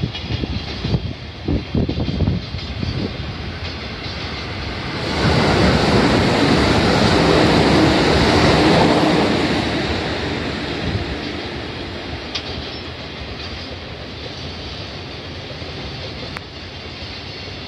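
A train running on nearby tracks: the rail and wheel noise swells about five seconds in, stays loud for a few seconds, then slowly fades away.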